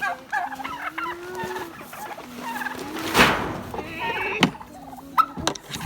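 Heritage turkeys calling, several drawn-out calls that glide slowly in pitch and overlap. A short, loud burst of noise comes about three seconds in, and a couple of sharp clicks follow near the end.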